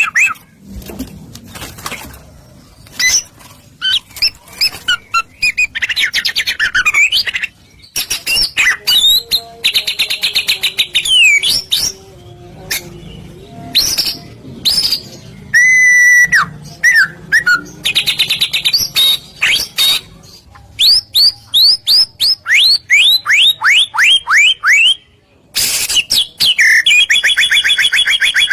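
White-rumped shama (murai batu) singing a loud, varied song of rapid trills, whistled notes and sharp clicks. About three-quarters of the way through comes a run of quick downward-sweeping notes.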